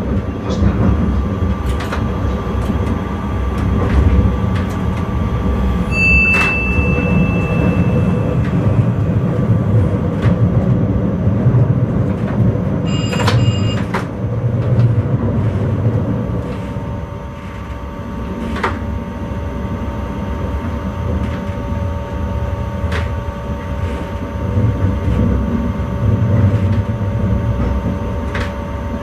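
Intercity train running, heard from the driver's cab: a steady low rumble with scattered clicks from the track. A held electronic beep sounds about six seconds in, and a shorter one about halfway through.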